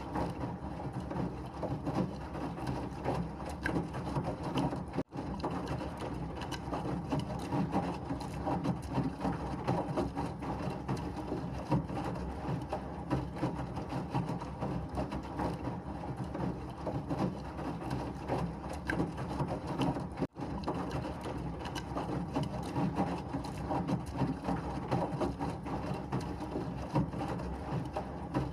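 Washing machine running, a steady churning hum with fine irregular rattle from the tumbling drum. It drops out for an instant twice, about 5 and 20 seconds in.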